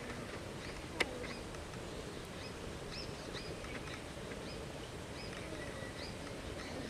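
Small birds chirping, short high calls repeated every half second or so over a steady outdoor background, with one sharp click about a second in.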